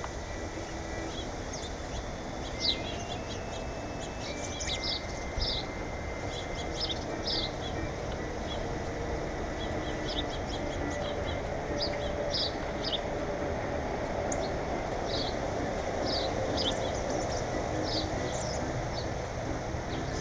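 Small birds chirping: many short, high chirps, scattered and irregular, over a steady background hiss.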